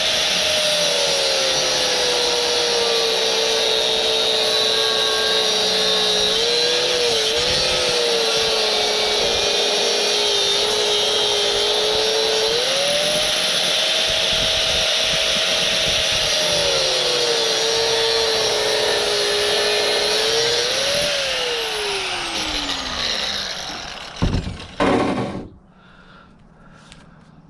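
Electric power tool running hard on scrap, its motor pitch sagging as it bites and climbing when eased off, over a loud hiss of cutting. About 21 seconds in it is released and winds down, followed by a couple of knocks.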